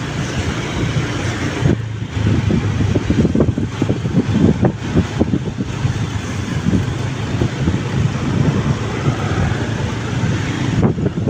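Wind buffeting the microphone on a moving motorbike, over engine and road noise, with a couple of brief drop-outs.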